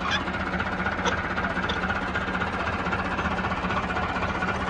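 Massey Ferguson 385 tractor's four-cylinder diesel engine running steadily, driving a belt-powered mustard thresher, as one continuous even drone. A few short sharp clicks or knocks sound over it near the start and at about one and two seconds in.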